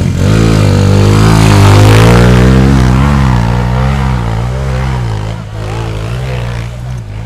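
Trail motorcycle engine revving hard on a steep hill climb, its pitch rising and falling with the throttle; it comes in loud at once, peaks about two seconds in and eases off after about five seconds.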